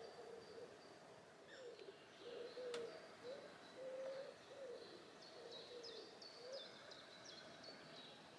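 Faint birdsong: a phrase of low, soft cooing notes with short high chirps of small birds above it.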